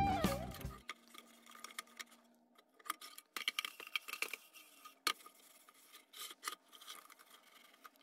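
Guitar music fades out within the first second, then faint scratching and scattered light clicks and taps of metal as a tin lantern is worked over with steel wool and handled.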